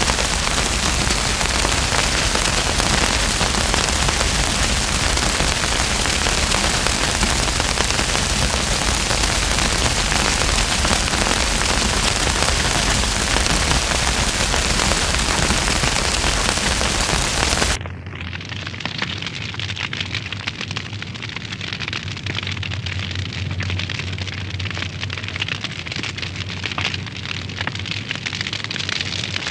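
Wood fire in a fireplace crackling and hissing, with a dense, steady hiss. About 18 seconds in, the sound cuts abruptly to a quieter, duller crackle of scattered pops.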